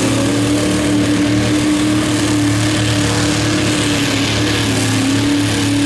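Mud truck engine running at high, steady revs, its pitch dipping slightly about four seconds in and then holding again.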